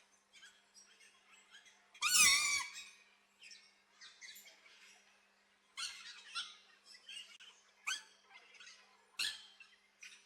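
Aviary birds calling: one loud call with a bending pitch about two seconds in, lasting about half a second, with softer chirps and a few sharp clicks scattered through the rest.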